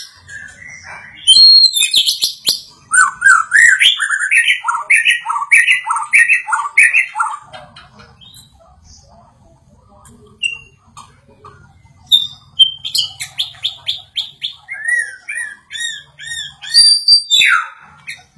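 White-rumped shama singing: loud whistled phrases repeated about twice a second for several seconds, a quieter pause, then another fast run of repeated notes near the end.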